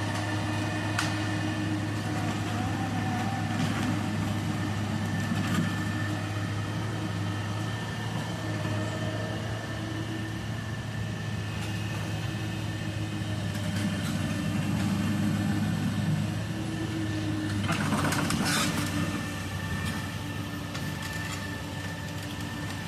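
Excavator's diesel engine running steadily, with a constant high whine over the low hum. A louder rush of noise comes about three-quarters of the way through.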